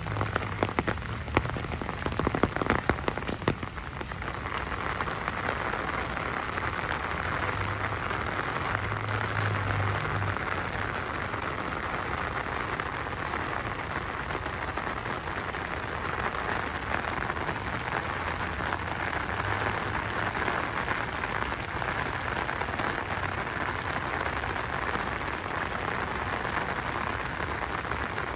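Steady rain falling. In the first four seconds many sharp close drops tap, and then the rain settles into an even hiss.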